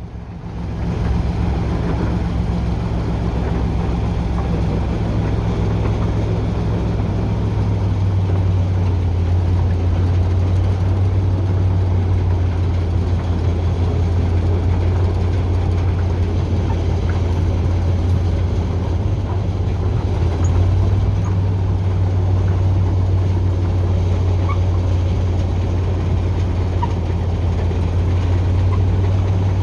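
YaMZ-236 V6 diesel of a TU6A narrow-gauge locomotive running steadily under way. Its note drops slightly about a quarter of the way in and comes back up about two-thirds through.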